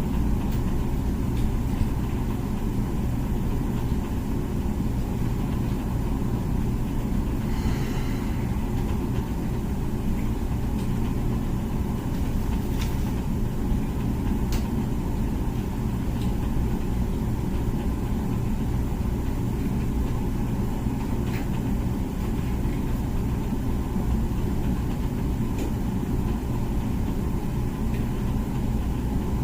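Comfee dishwasher running its wash cycle: a steady low rumble of the wash pump and spraying water, with a few faint ticks.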